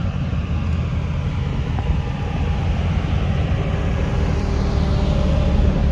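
Motor vehicle engine rumbling steadily, with a rushing noise that builds through the middle and eases off toward the end, as of a vehicle moving past.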